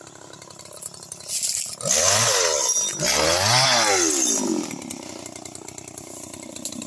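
Small engine of a motorized oil-palm chisel (dodos mesin) idling, then revved up twice, each rev about a second long, its pitch rising and falling, before dropping back to idle.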